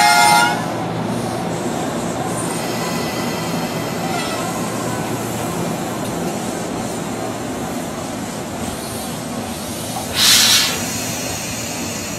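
Tobu 200-series electric limited-express train pulling out and running past, a steady rumble of wheels and motors. A horn note cuts off about half a second in, and there is a short hiss about ten seconds in.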